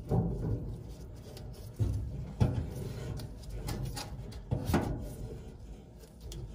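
Gas valve being fitted onto a furnace's gas manifold: a series of sharp knocks and clunks, about seven in all, the loudest two-and-a-half and nearly five seconds in, over low rubbing and scraping as the parts are handled and turned.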